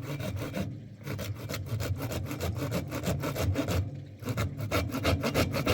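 Quick, regular scraping or rubbing strokes, about six to eight a second, pausing briefly twice, over a low steady hum.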